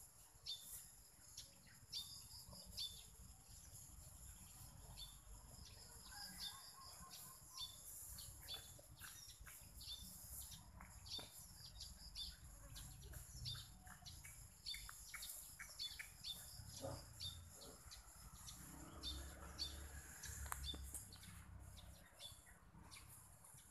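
Birds chirping faintly, many short high chirps scattered irregularly, over a faint low rumble.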